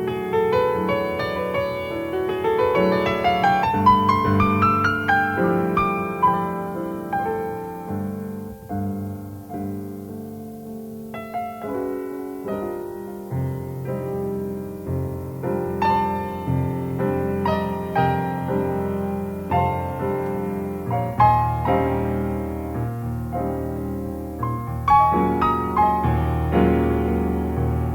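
Jazz piano played freely without a beat: a long rising arpeggio run over the first few seconds, then ringing chords and runs, with the low notes growing stronger about three quarters of the way through.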